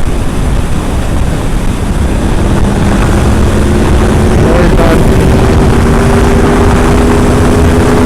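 Honda VFR V4 motorcycle engine running under way, buried in loud wind and water-spray noise on the helmet microphone, as the bike pushes through standing flood water. A steady engine note rises out of the rush about three seconds in.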